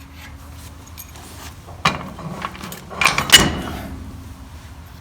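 Steel parts of a tractor's three-point-lift arm knocking and scraping as they are fitted by hand: a sharp click about two seconds in, then a louder clatter of clanks a second later, with a faint metallic ring.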